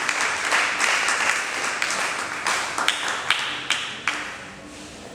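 Congregation applauding: a dense patter of hand claps that thins to a few separate claps and dies away near the end.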